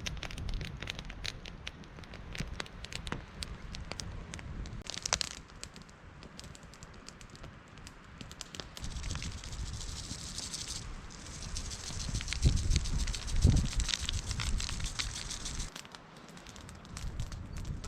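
Campfire of wood crackling and popping, with many sharp snaps and a hiss, over a low rumble that swells about twelve to fourteen seconds in.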